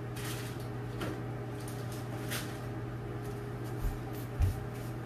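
Kitchen handling noises while mixing brownies: a few light scrapes and clicks, then two soft thumps near the end, over a steady low hum.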